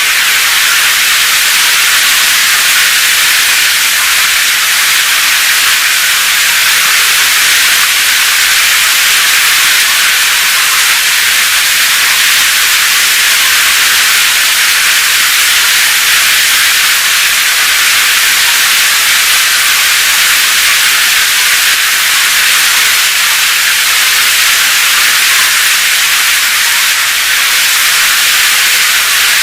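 Rain sound effect: a loud, steady hiss of dense rain, high in pitch with little low rumble and no separate drops or thunder standing out.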